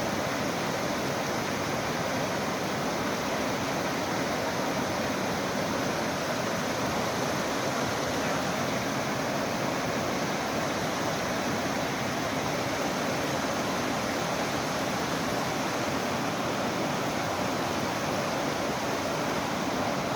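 Steady rush of a mountain stream's running water, even and unbroken.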